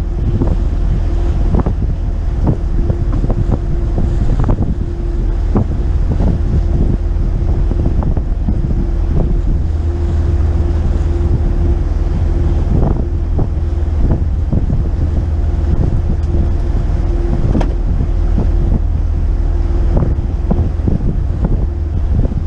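Wind buffeting the microphone on a moving motor yacht, over a steady engine drone with a constant hum and water rushing past the hull, broken by frequent short knocks.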